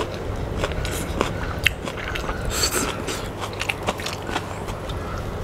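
Close-miked chewing of a mouthful of fried noodles, with many short wet mouth clicks and smacks.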